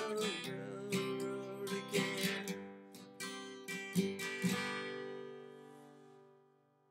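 Acoustic guitar strumming the closing chords of a song, ending on a final chord that rings out and fades away.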